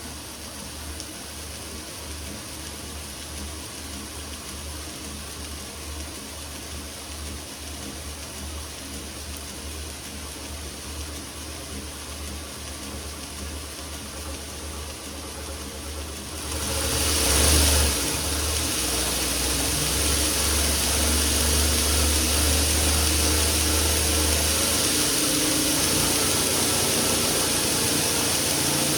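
Homemade belt-driven buffing wheel attachment running on its first test spin, its shaft turning in pillow block bearings, driven by a VFD-controlled electric motor. A low, pulsing hum that jumps up about two thirds of the way through as the speed is raised, then runs on louder and steady.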